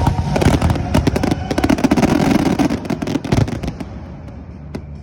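Fireworks going off in rapid succession: a dense run of bangs and crackles that thins out after about three and a half seconds.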